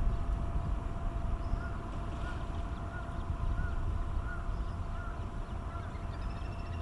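Repeated soft peeping calls, one short note about every 0.7 s starting about a second and a half in, over a steady low rumble that is the loudest sound; the peeps fit little grebe chicks begging.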